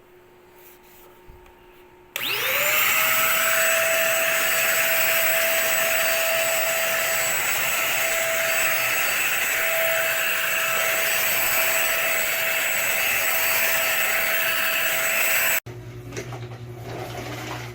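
Deerma DX115C handheld stick vacuum cleaner switched on about two seconds in: its motor whines up to speed, then runs steadily with a high whine over a loud rush of air, and cuts off suddenly near the end.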